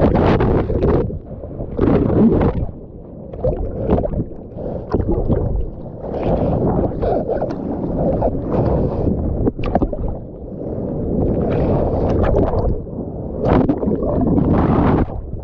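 Wind buffeting the microphone and water splashing and sloshing around a small boat out on the sea, rising and falling in uneven surges.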